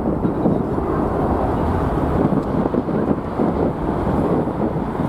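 Jet airliner taking off, its engine noise a steady rumble, mixed with strong wind buffeting the microphone.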